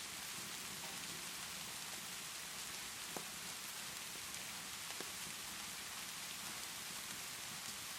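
Steady rainfall hiss with a fireplace crackling, and two sharper pops about three and five seconds in.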